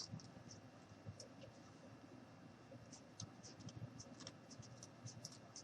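Near silence with faint scratching and scattered light ticks from the rope and glass being handled.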